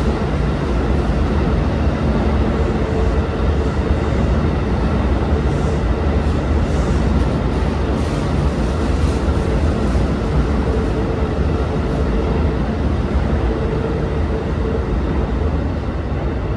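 Hankyu 2000 series electric train running as it departs: a steady rumble of wheels and running gear on the rails, with a faint steady hum above it.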